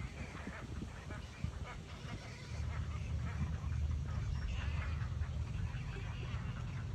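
Birds calling in quick series of short notes, with a steady low rumble that starts about two and a half seconds in and gets louder.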